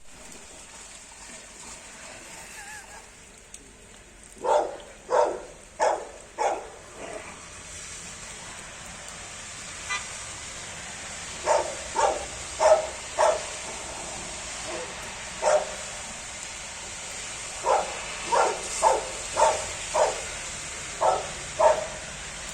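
Labrador barking in runs of three to five barks, about two a second, with pauses of a few seconds between the runs.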